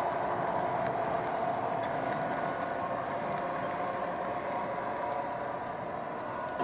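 00 gauge model train running round the layout track: a steady mechanical hum with a few held tones.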